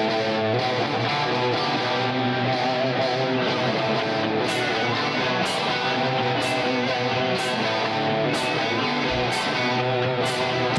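Live rock band playing an instrumental passage led by guitars. From about four seconds in, a sharp hit lands roughly once a second.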